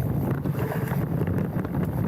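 Wind buffeting a handlebar-mounted action camera's microphone as a mountain bike rolls down a dirt trail, over a steady low rumble of tyres with scattered small rattles and clicks from the bike.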